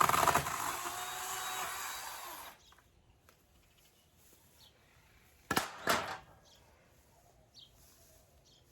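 A power tool running loud and steady on water-damaged wooden furniture, cutting off about two and a half seconds in. Two sharp knocks follow about half a second apart, a few seconds later.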